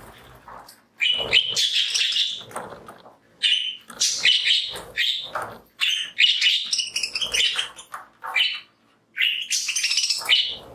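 A flock of budgies chirping and warbling in quick bursts, with brief pauses between them.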